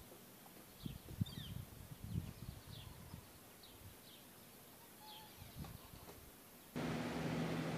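Small birds chirping outdoors, short high chirps every half second or so, over a few low thumps about a second in. Near the end the sound cuts suddenly to a louder steady hiss with a low hum.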